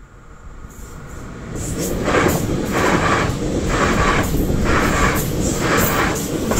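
A České dráhy InterPanter electric multiple unit passing over the level crossing. It rumbles in, is loudest from about two seconds in with a rhythmic clatter of wheels roughly once a second, and fades just as the last car clears.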